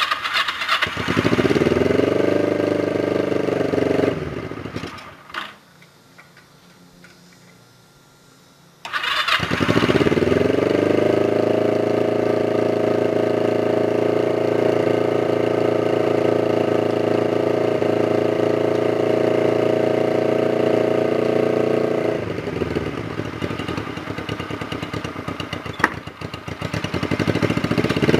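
Honda CB125 twin with chopped, open header pipes being started cold on choke after sitting for weeks. It catches about a second in, runs briefly and dies after about four seconds. A second start near nine seconds catches, rises and settles into a loud, steady fast idle, then drops to a lower, less even idle after about 22 seconds and picks up again near the end.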